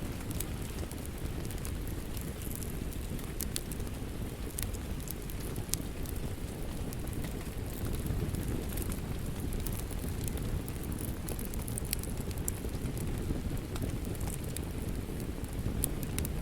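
Wood fire crackling in a fireplace: a steady low rumble of the flames with scattered sharp pops and crackles.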